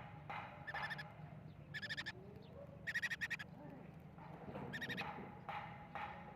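Small pet parrots, a lovebird among them, chirping: about six short, sharp, shrill calls spread across the few seconds.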